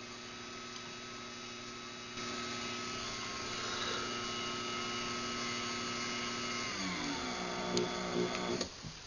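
Craftsman garage door opener running an opening cycle after a remote press: a steady motor hum with a high whine that gets louder about two seconds in. Near the end the whine drops in pitch as the motor slows, a few clicks follow, and it stops shortly before the end.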